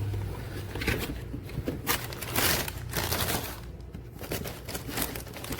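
Rustling, crinkling handling noises in irregular short bursts over a faint low hum.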